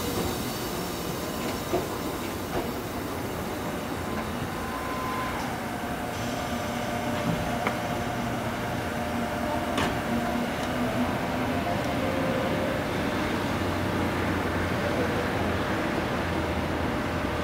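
Electric commuter train running along the platform and moving away: wheel-on-rail rumble with a steady electric whine that drops in pitch about five seconds in, and a few sharp clicks from the track.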